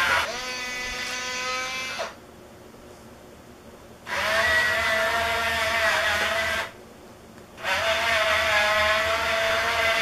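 Small electric drive motors and gearboxes of a radio-controlled wooden model bulldozer whining in three spurts. The first run is lower in pitch and stops about two seconds in; after a pause come two longer runs at a higher, steady pitch, broken by a short pause.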